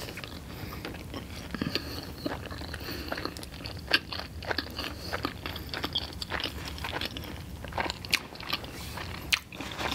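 A person chewing a mouthful of a McDonald's sausage and egg burrito, a soft flour tortilla wrap: a steady run of many small mouth clicks.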